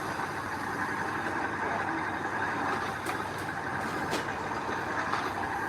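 Heavy earthmoving machinery, a bulldozer and dump truck, running steadily, with a few sharp clanks about three, four and five seconds in.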